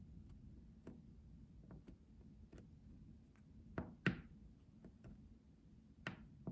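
Faint, irregular light taps and clicks close to the microphone, as in ASMR tapping. A louder double tap comes about four seconds in and another tap near the end.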